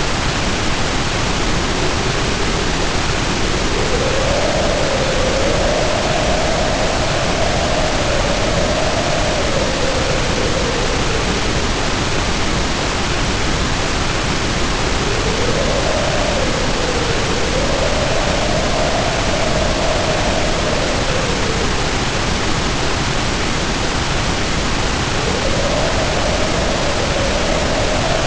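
Heavy rain pouring steadily under a howling wind. The howl swells up and sinks in pitch in slow waves, cresting about four, sixteen and twenty-six seconds in.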